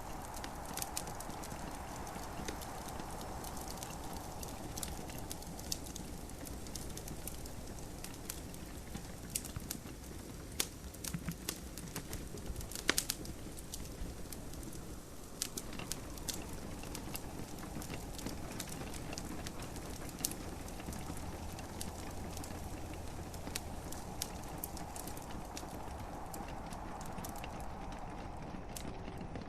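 Wood fire crackling in a fireplace, with scattered sharp pops, the loudest about 13 seconds in, over a steady hiss of gentle rain.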